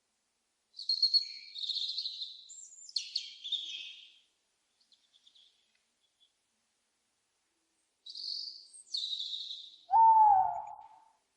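Two bouts of high, chirping bird calls, each a few seconds long, then a single lower owl call near the end, the loudest sound, with a slight falling bend in pitch.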